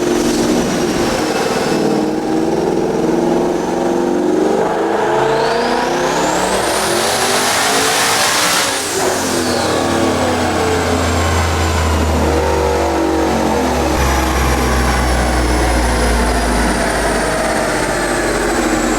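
Twin-turbo Ford Coyote 5.0 V8 in an S650 Mustang making a full-throttle pull on a chassis dyno. The engine note and a high turbo whistle rise steeply in pitch together for a few seconds. About nine seconds in it lets off, and a deep low rumble carries on while a fading whistle slowly falls as it winds down.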